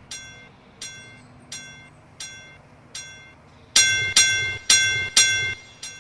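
A bell struck repeatedly, at first about once every 0.7 s, then louder and faster from a little past halfway.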